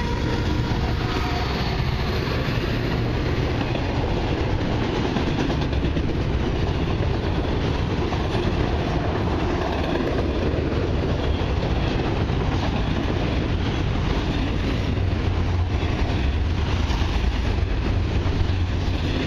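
Freight train of enclosed autorack cars rolling past at close range, a steady rumble with wheels clattering over the rails. The engine tone of the trailing diesel locomotives fades out in the first second.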